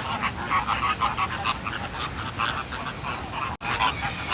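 A flock of American flamingos calling: a loud din of many short, overlapping calls, with a momentary cut-out about three and a half seconds in.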